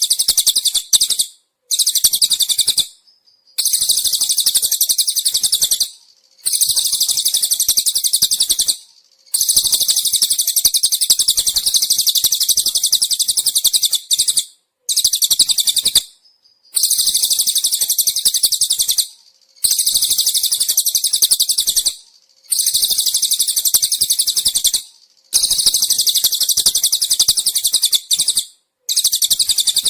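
Cililin songbird singing: long, very high, rapid trilling phrases of two to three seconds each, repeated about ten times with short breaks between.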